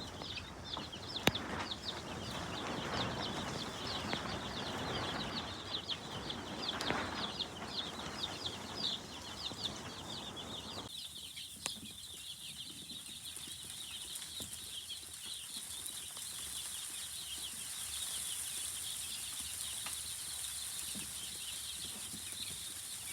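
A large brood of week-old chicks peeping continuously in many overlapping short, high chirps. A rustling noise runs under them and stops abruptly about halfway through, leaving the peeping over a faint high hiss.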